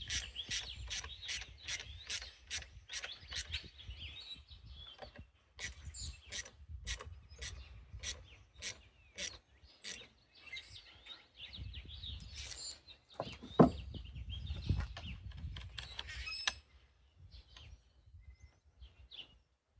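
Hand-tool and handling noises on a chainsaw being reassembled. Two runs of sharp, evenly spaced clicks, about three a second, come with rubbing and scraping, and there is one heavier knock about two-thirds of the way through.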